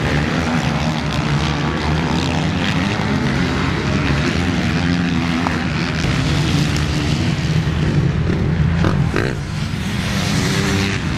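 Motocross motorcycle engines running at race speed, a continuous loud drone whose revs rise and fall as the bikes accelerate and shift.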